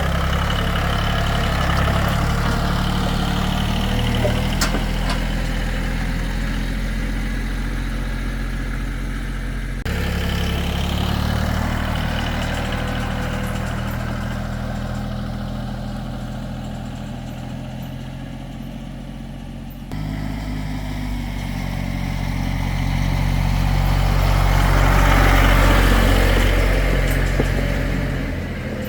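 Tractor engine running with a steady hum. The sound changes abruptly about ten and twenty seconds in, and it grows louder near the end.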